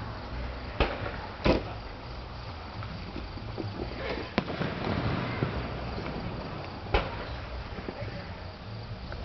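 Aerial fireworks going off: four sharp booms, the loudest about a second and a half in, another near the middle and one about seven seconds in, over a background of crowd murmur.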